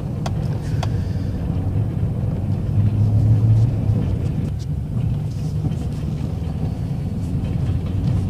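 Plow truck's engine running with a steady low drone, swelling in level about three seconds in.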